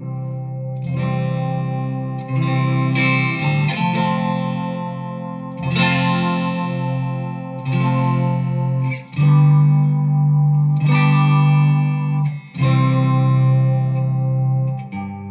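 Electric guitar played through a BOSS SY-200 guitar synthesizer pedal, giving rich synth tones. Sustained chords are struck again every one to two seconds, each one ringing on until the next.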